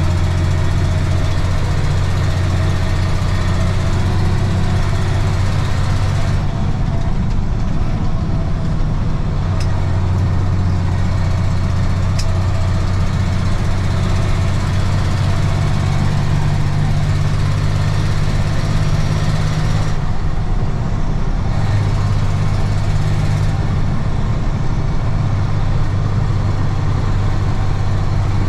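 Diesel engine of a 1995 Ford L8000 truck idling steadily.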